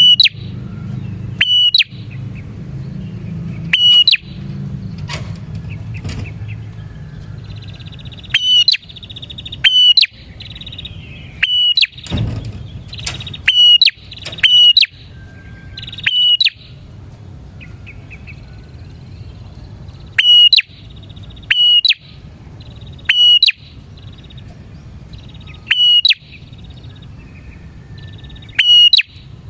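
Bar-winged prinia (prenjak) calling: loud, sharp, short calls repeated every one to three seconds, with fainter buzzy trills between them.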